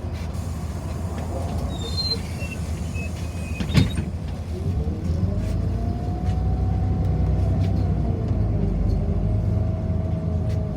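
City bus pulling away from a stop, heard from inside: a few short high beeps about two seconds in, a sharp click near four seconds, then the drive note rises in pitch as the bus accelerates and settles into a steady hum over the low rumble of the ride.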